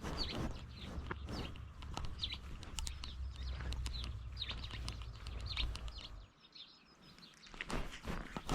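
Small birds chirping repeatedly over a low rumble. Near the end the chirping stops and a louder rustling, scraping noise begins.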